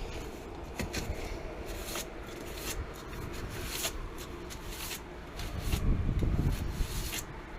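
Work-handling noises: rubbing and scraping with scattered light clicks and knocks, and a heavier stretch of low bumping about six seconds in.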